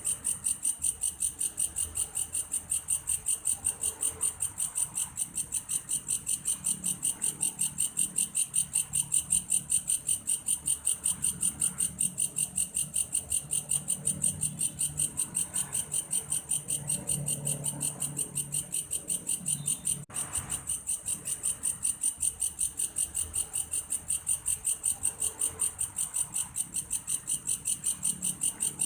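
Belalang kayu grasshopper calling continuously, a high, cricket-like chirp pulsing evenly at about four a second.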